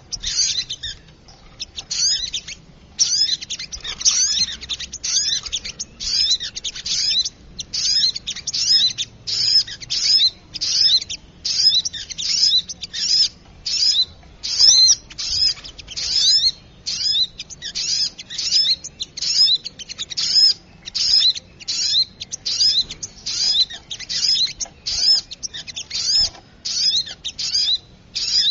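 Little spiderhunter (sogok ontong) calls played as a bird lure: rapid high-pitched chirps in short busy bursts, about two bursts a second, repeating without pause.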